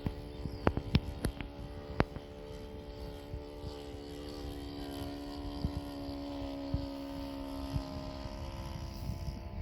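Radio-control model airplane's motor and propeller running with a steady hum, its pitch drifting slightly. A few sharp clicks in the first two seconds, with wind rumble on the microphone.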